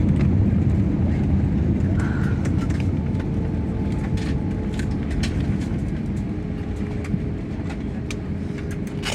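Airliner cabin noise just after touchdown: a loud, steady low rumble of the engines and the wheels on the runway that slowly fades as the plane slows, with scattered small clicks and rattles.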